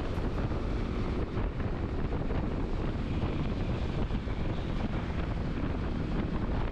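Steady wind noise on the microphone of a moving motorcycle, a constant low rushing with the bike's running noise underneath.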